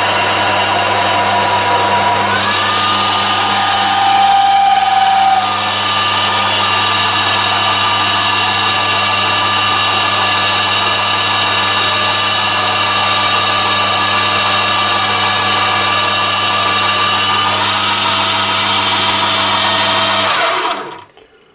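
Chinese mini lathe running under power feed while taking a half-millimetre cut, a steady motor and gear whine with several tones. It grows a little louder for a moment about four seconds in, and the lathe stops shortly before the end.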